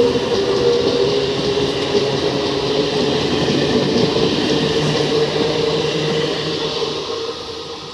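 Electric suburban local train (EMU) running past at speed: a steady rush of wheel and running noise with a hum under it. It fades away near the end as the train recedes.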